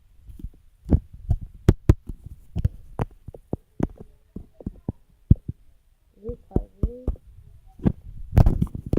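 A run of irregular sharp knocks and clicks, several a second, close to the microphone.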